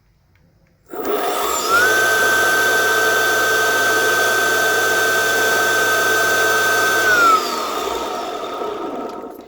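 Belt-drive electric skateboard motor spun up off the ground: a steady high whine with belt and wheel running noise. It climbs quickly about a second in, holds for about five seconds, then spins down near the end.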